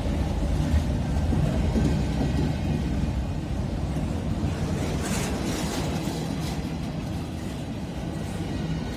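CSX double-stack intermodal freight train rolling past at street level: a steady low rumble of the well cars' wheels on the rails, with a brief hiss about five seconds in.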